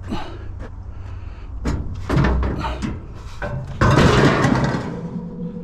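Metal clanking and knocking as scrap wire shelving is handled on a pickup truck bed, with a loud crash lasting about a second near four seconds in, over a steady low hum.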